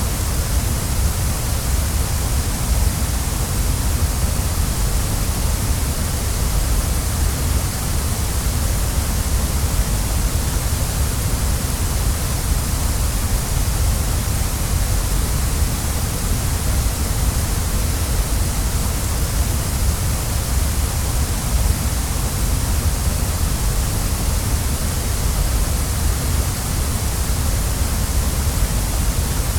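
Waterfall: water falling and rushing steadily without a break, a deep rumble under a bright hiss.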